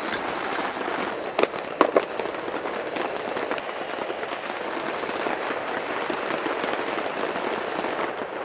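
Heavy rain pattering steadily on a shelter overhead, with a few sharp taps about a second and a half in.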